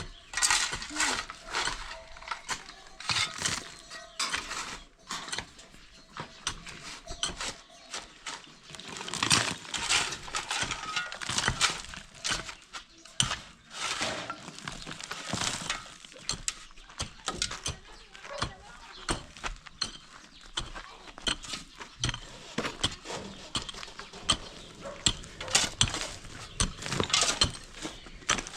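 Dense, irregular sharp knocks and clinks of hard material being struck and broken, typical of demolition work breaking up the old house.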